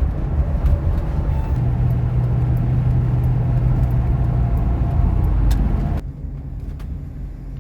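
Motor vehicle running: a dense low rumble with a steady low hum, dropping abruptly to a quieter rumble about six seconds in.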